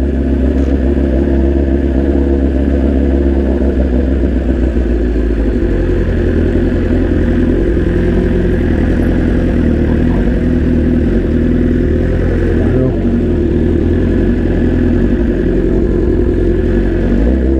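BMW S1000RR inline-four engine running steadily with little change in revs as the bike rolls slowly through traffic, heard from the rider's seat.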